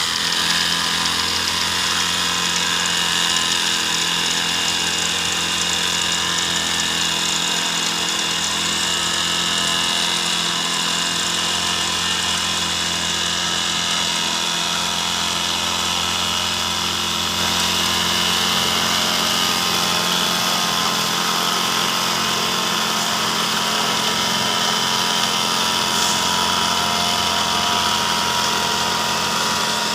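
Concrete-pouring machinery running steadily: a high whine over a low engine drone. The low drone drops away about two-thirds of the way through.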